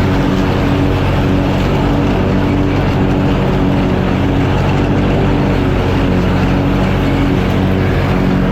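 Engine of a mowing machine running steadily while cutting grass.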